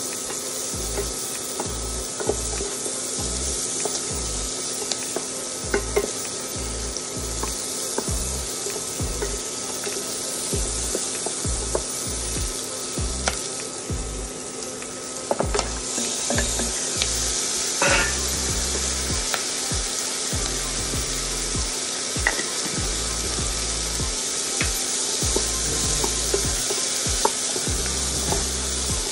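Onion pieces sizzling in oil in a small nonstick saucepan, with a wooden spatula stirring and tapping against the pan. About halfway through the sizzle dips briefly, then comes back louder as carrots, cauliflower and green beans are tipped in and stirred.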